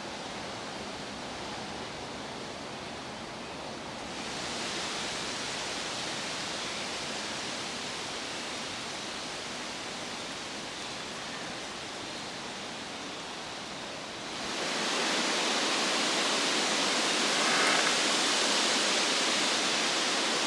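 Wind rushing through the trees, a steady noise that swells about four seconds in and grows louder again after about fourteen seconds.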